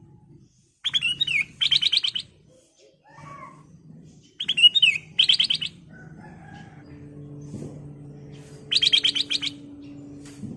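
Black-crested bulbul (kutilang emas) singing: three phrases, the first two a quick swooping note followed by a fast rattling run of repeated notes, the third the run alone. A low steady hum runs underneath from about two-thirds of the way in.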